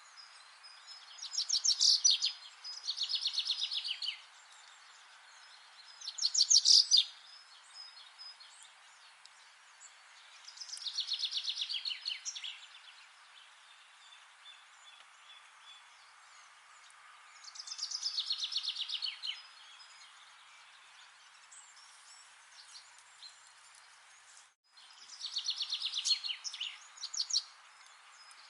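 A songbird singing short, fast trilled phrases, each one to two seconds long and about six in all, separated by pauses, over a steady outdoor hiss.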